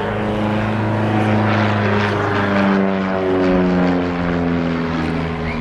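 Scottish Aviation Bulldog's 180 hp flat-four Lycoming engine and propeller droning as the trainer flies past, the pitch dropping steadily through the middle of the pass.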